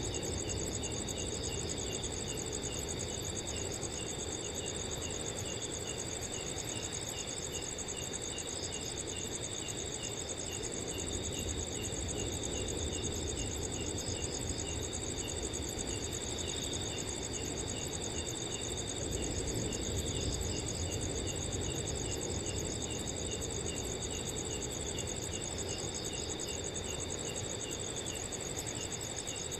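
Crickets chirping at night, several at once: a continuous high trill over a lower, evenly repeated chirping, with a steady low rush of wind underneath.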